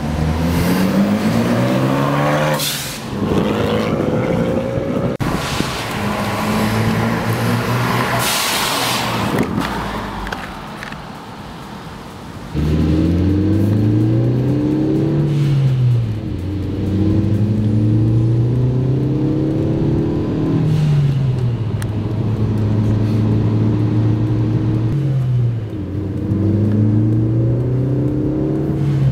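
Ford Focus ST's turbocharged four-cylinder with a Milltek cat-back exhaust, accelerating hard. Its pitch rises through each gear and dips at each upshift. It is first heard from the roadside as the car comes up and passes, then from inside the cabin from about twelve seconds in, with upshifts every four to five seconds.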